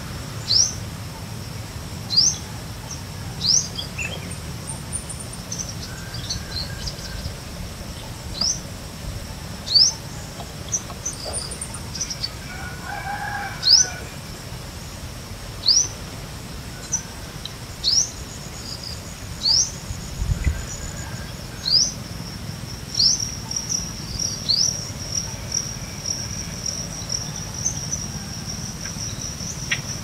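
A bird repeats a short, sharp rising whistled note about every one and a half to two seconds, over a steady high-pitched insect trill that grows stronger in the second half. A rooster crows faintly in the distance about halfway through.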